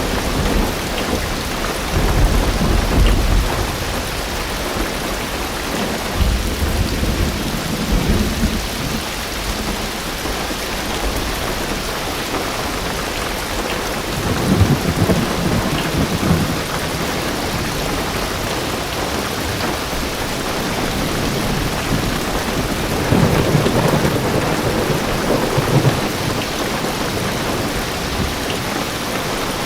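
Heavy rain drumming steadily on a car's roof and windows, heard from inside the car, with deep rolls of thunder swelling up several times.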